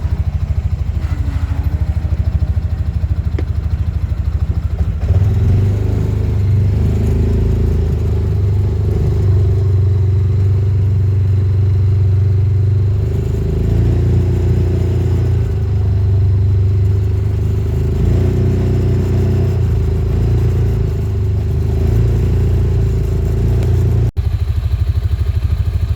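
Vehicle engine running steadily, getting louder about five seconds in and wavering in pitch in the middle, with a brief dropout near the end.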